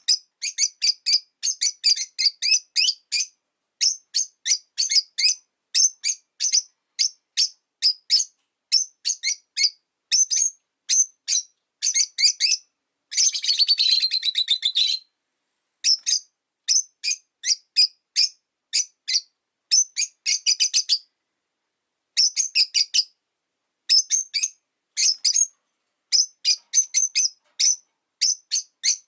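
Rosy-faced lovebirds chirping: rapid runs of short, sharp, high-pitched chirps in bursts with brief pauses, thickening into a dense run about halfway through.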